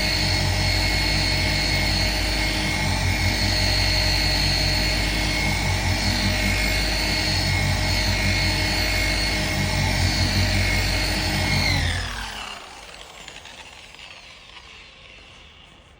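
Handheld paint-correction power tool running with a steady whine, then switched off about twelve seconds in and spinning down, its pitch falling as it dies away.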